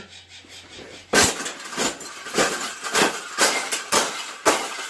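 Hard clinking knocks, about two a second, starting about a second in, as of something being struck or banged repeatedly.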